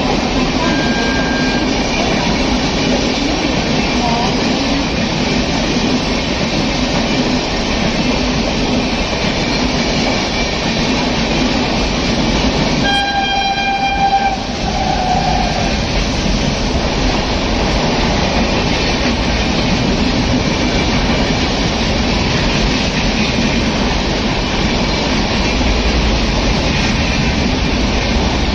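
Rajdhani Express passenger train running on the rails with a steady rumble and wheel noise. About halfway through, an electric locomotive's horn sounds one steady note for about a second, followed by a shorter second note.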